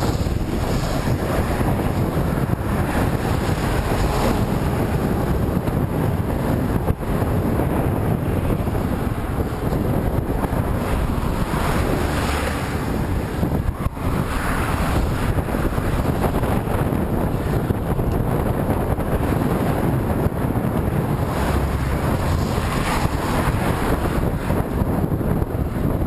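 Wind blowing hard over the microphone of a camera carried while cycling into a headwind: a loud, steady rushing noise.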